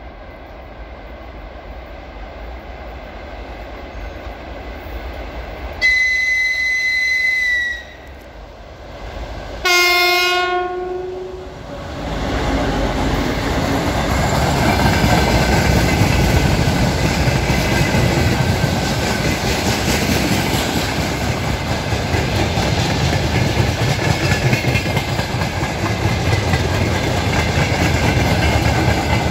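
2TE10UK diesel locomotive hauling a freight train: its rumble grows as it approaches, and about six seconds in it sounds a high single-pitched horn note for about two seconds, then near ten seconds a lower, fuller horn blast. From about twelve seconds the locomotive and the freight wagons pass close by, with a loud rolling rumble and the clickety-clack of wheels over rail joints.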